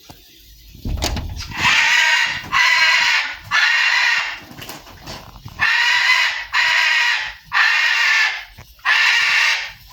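Pet parrot screaming: about seven loud, harsh screams of close to a second each, repeated one after another.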